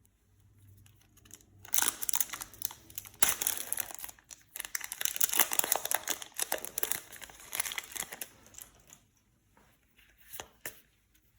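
Foil Yu-Gi-Oh booster pack wrapper crinkling and tearing as it is opened: a dense run of crackles lasting several seconds, then a few short rustles near the end.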